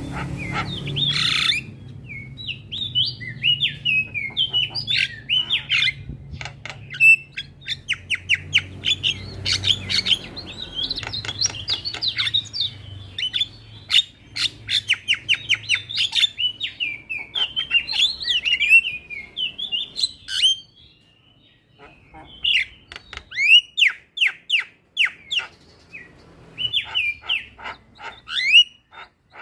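Javan myna (jalak kebo) singing: a fast, varied run of chattering notes, rapid clicks and whistled slurs, with a brief pause about three-quarters of the way through.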